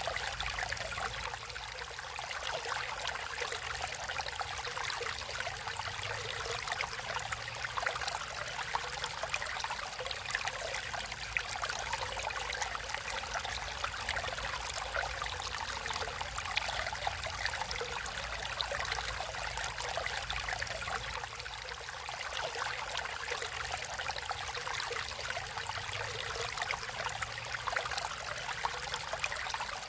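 Natural running water flowing steadily, with no breaks or changes.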